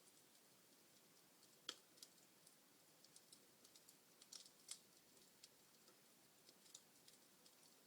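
Wood fire crackling faintly: scattered small pops and snaps over a soft hiss, with a sharper snap about two seconds in and a quick run of pops near the middle.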